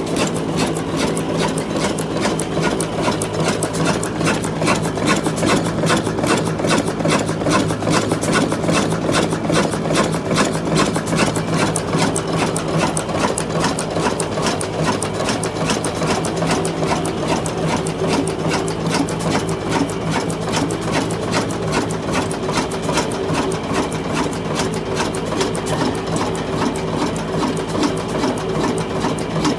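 Old diesel engine running steadily with a fast, even mechanical clatter.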